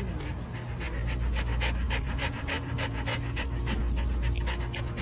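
Dog panting rapidly in quick, even breaths, about four or five a second, over a low steady hum.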